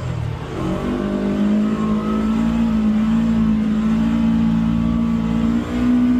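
Polaris Xpedition UTV's engine pulling hard up a steep climb. The revs dip and come back up within the first second, then hold high and steady, rising a little near the end.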